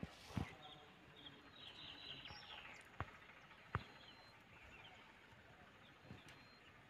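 Quiet outdoor ambience with small birds chirping briefly about two seconds in, and a few sharp isolated clicks.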